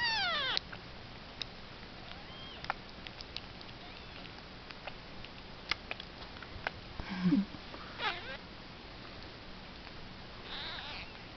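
Young kitten mewing several times: a loud mew falling in pitch at the start, then fainter mews about eight and ten seconds in, with scattered small clicks between them.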